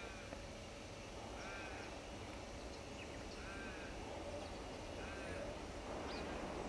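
A bird calling with short, crow-like calls, repeated about every two seconds. Under it is the faint rumble of distant T class diesel locomotives, growing louder near the end as the train approaches.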